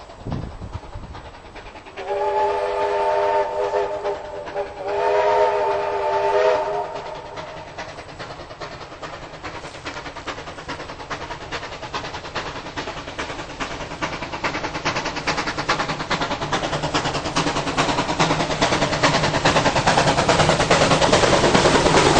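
Train whistle sounding two long chord blasts. Then the train approaches, its fast rhythmic running sound growing steadily louder.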